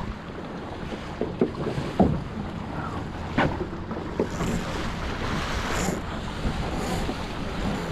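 Small sailing dinghy under way: water rushing and slapping against the hull, wind buffeting the microphone, and a few sharp knocks from the hull meeting the chop.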